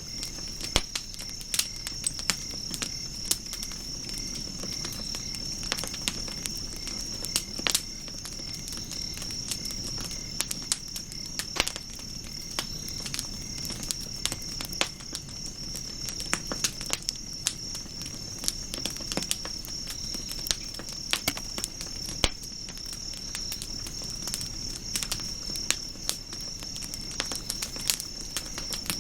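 Wood campfire crackling with irregular sharp pops, over a steady, high-pitched trill of insects.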